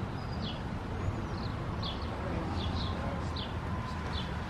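A small bird chirping over and over, short high downward notes about twice a second, over a steady low rumble.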